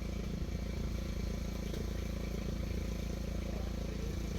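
An engine running steadily at idle, a low, even drone.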